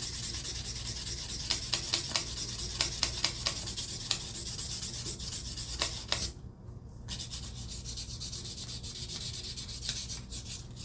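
Sandpaper rubbed back and forth in quick strokes along the steel blade of a rusty folding knife, sanding off rust. The strokes stop briefly about six seconds in, then resume more softly.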